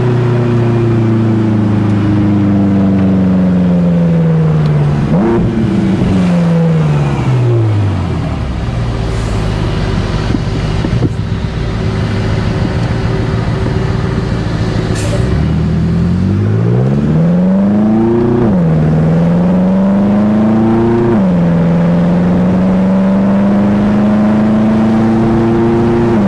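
BMW M5 F10's twin-turbo V8 engine slowing down with a brief rev blip about five seconds in, then running low and steady. About fifteen seconds in it accelerates hard, pitch climbing through two quick upshifts, then settles to a steady cruise.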